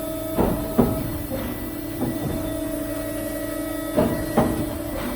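Industrial machinery running with a steady hum, broken by several short clunks and knocks.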